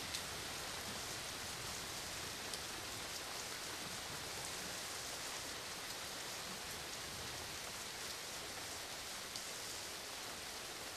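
Steady rainfall hissing evenly, with the odd single drop ticking through, about a second in, near two and a half seconds, and again near the end.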